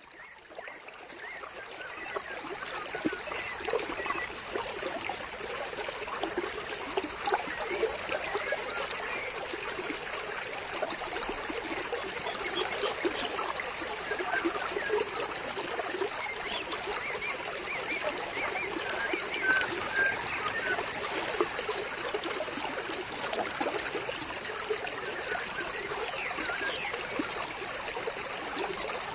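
Stream of water flowing and trickling steadily, with small birds chirping now and then over it. It fades in over the first second or two.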